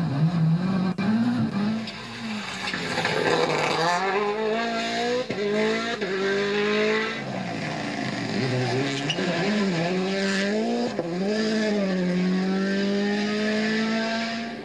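Rally car engine at full attack, its pitch climbing through each gear and dropping back at shifts and braking, several times over, with a long pull near the end.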